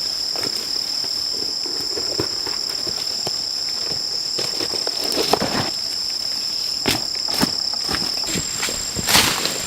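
Steady high-pitched chorus of rainforest insects holding two tones, the lower of which fades out near the end. Scattered short knocks and rustles of handling sit over it, the loudest about halfway through and again near the end.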